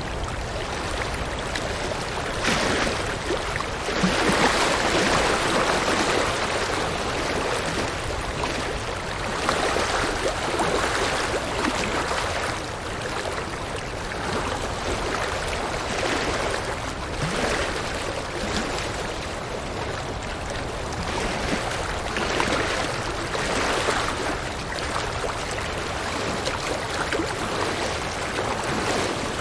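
River water rushing and gurgling over rocks, a steady wash that swells louder every few seconds.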